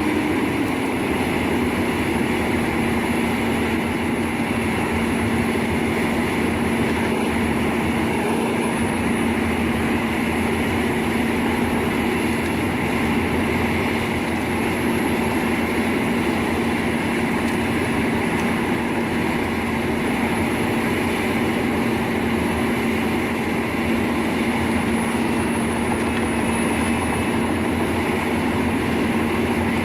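Wood chipper running steadily under load, its hum dropping slightly in pitch about a second in and then holding steady, with a thin high whine above it.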